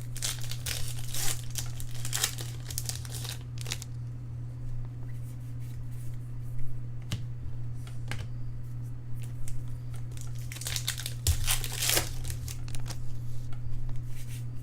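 Trading-card pack wrappers being torn open and crinkled by hand, in two spells of crackling separated by a few scattered clicks and handling noises.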